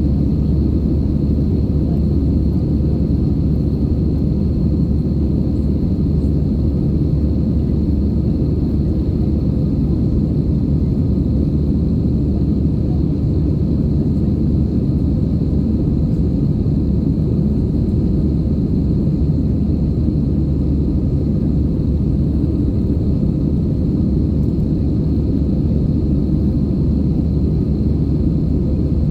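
Steady low cabin noise of an EasyJet Airbus A320-family airliner in flight: engine and airflow rumble heard inside the passenger cabin, with a faint steady high tone above it.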